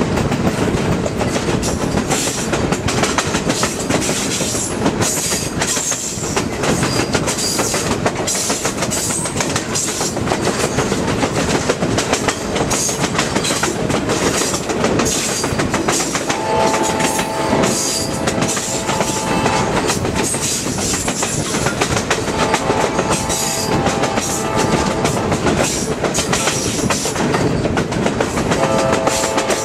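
Passenger train running, its wheels clattering and clicking over the rail joints under a steady rumble. The locomotive's horn sounds a chord in several blasts in the second half, as for a road crossing.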